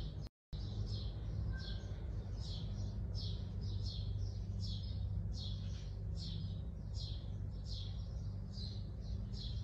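A small bird chirping over and over, short high downward-sweeping chirps about two a second, over a steady low hum. The sound drops out briefly just after the start.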